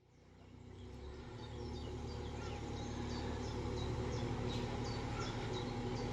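A boat's engine running at a steady low hum, fading in, with a small songbird singing a run of short, repeated falling chirps above it.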